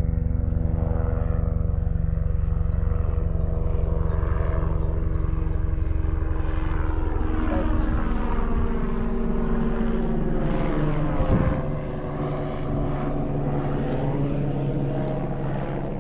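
Helicopter flying over, a steady rotor and engine drone with fast low blade pulsing; its tone shifts as it passes, and it gets a little quieter after about eleven seconds.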